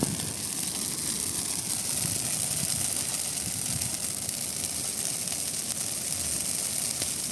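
Large bonfire of burning Christmas trees: a steady rushing hiss with a few faint snaps.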